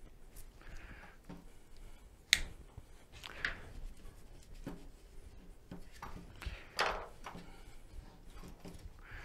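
Hands-on workshop handling noises: a sharp click a little over two seconds in, then a few short hissing strokes and small knocks.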